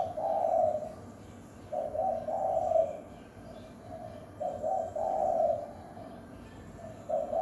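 Spotted dove (terkukur) cooing: repeated phrases of a short note or two followed by a longer coo, about every two and a half seconds.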